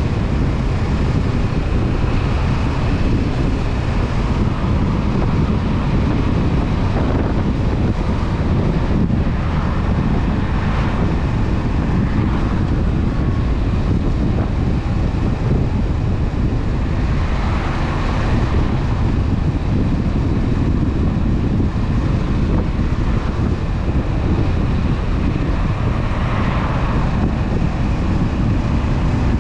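Honda CB500F's parallel-twin engine running at a steady cruise, mixed with heavy wind noise on the microphone.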